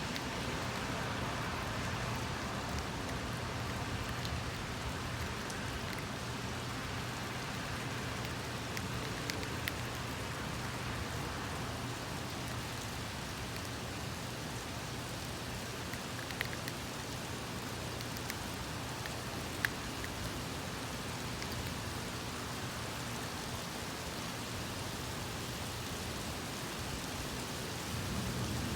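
Steady rain falling during a thunderstorm, an even hiss with a few sharp drip ticks. No thunder clap stands out.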